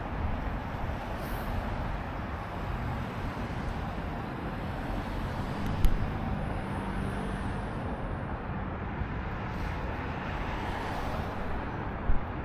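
Wind noise on the microphone of a moving bicycle over steady road and traffic noise, with a faint engine hum about halfway through. There is a sharp click about six seconds in and another near the end.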